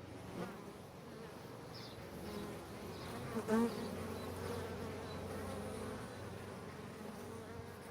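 Honey bees buzzing: a steady hum of many bees, with one louder buzz about three and a half seconds in.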